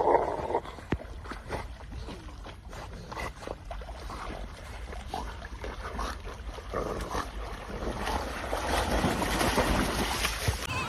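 Water splashing and sloshing, with wind on the microphone; the splashing grows louder and denser near the end.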